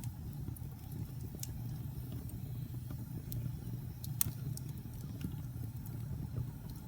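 Wood fire burning in a fireplace: a steady low rumble of flames with scattered sharp crackles and pops from the burning logs, the loudest pop about four seconds in.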